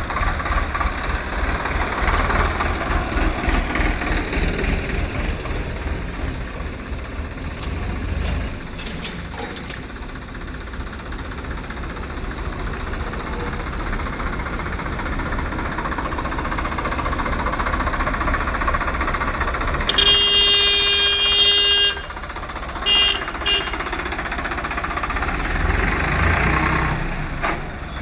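A tractor's diesel engine running steadily. About two-thirds of the way through, a steady high pitched tone sounds for about two seconds, then twice more briefly.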